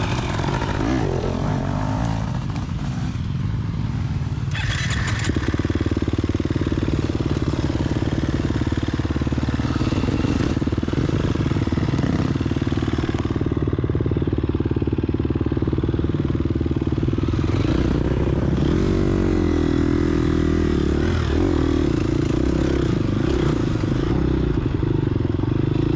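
A 2022 Gas Gas EX250F dirt bike's 250cc four-stroke single-cylinder engine running under load while riding. The engine pitch rises and falls with the throttle, wavering around two-thirds of the way through.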